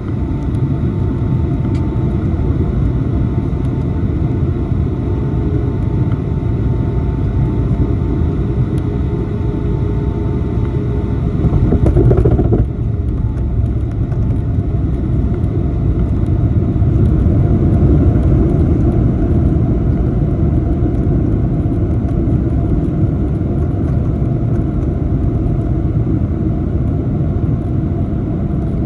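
Boeing 757-200 jet engines and airflow, a steady loud rumble with a faint steady whine above it, heard from inside the cabin. It swells briefly about twelve seconds in, then drops suddenly.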